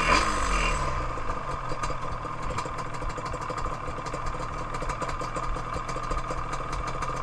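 Yamaha Banshee's two-stroke twin engine, its revs dropping right at the start as the rider rolls off the throttle and slows, then idling steadily.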